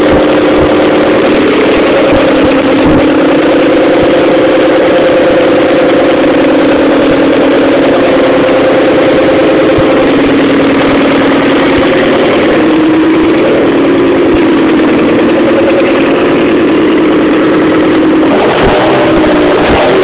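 Turbocharged Mk1 Vauxhall Astra GTE engine idling steadily just after its first start-up following a full rebuild. The idle settles slightly lower partway through, and the revs waver near the end.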